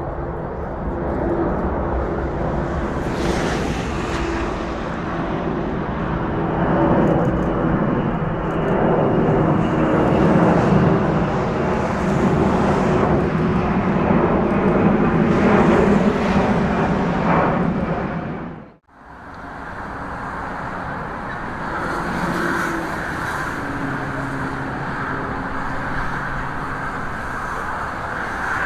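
Jet airliner engine noise, a loud steady rush rising and falling slightly, as a passenger jet takes off or lands. It drops away sharply about 19 seconds in, then resumes at a lower, steadier level.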